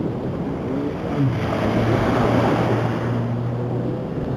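A motor engine running under a steady rushing noise, its low hum coming in about a second in and holding steady.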